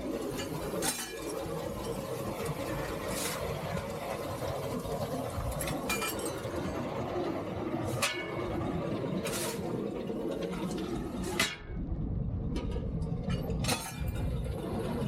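Steady mechanical running noise in the cab of a three-truck Shay steam locomotive, broken by sharp metallic clinks every second or two.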